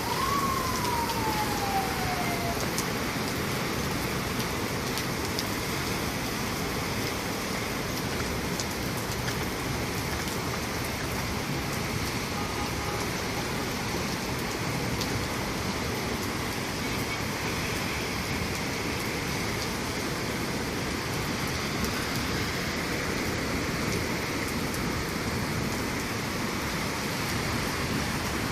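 Steady rain hiss. In the first couple of seconds a single tone glides down in pitch, like a siren winding down.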